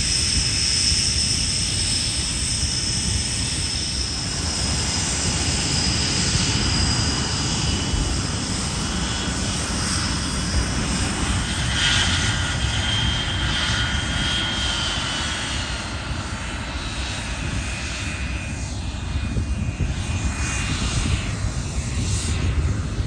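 Airplane engine noise in flight: a steady rumble with high whining tones that slowly fall in pitch, and a second whine coming in about halfway through.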